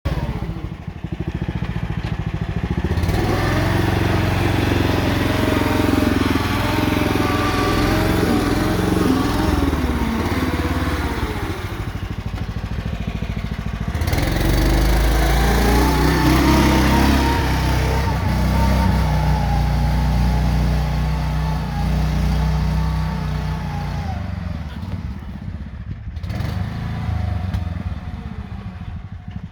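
Compact tractor engine running while working, its pitch rising and falling with load and throttle, and a steadier held note through the middle stretch.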